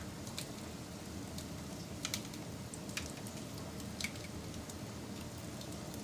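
Wood fire burning: a steady hiss under sharp, scattered crackles and pops, the loudest about two, three and four seconds in.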